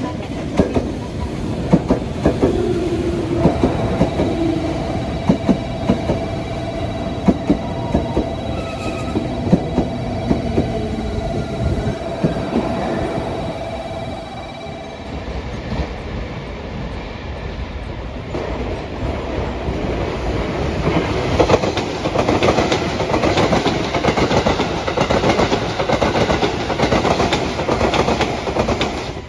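A train running past with its wheels clacking over rail joints about once a second, over a steady high tone. About halfway through, a louder, denser rumble of a passing train builds up.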